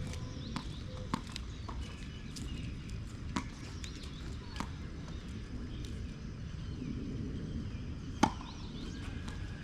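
Tennis ball being struck during a rally: a few sharp pops of racket on ball and bounces, irregularly spaced a second or more apart, the loudest about eight seconds in. Behind them runs a steady low noise.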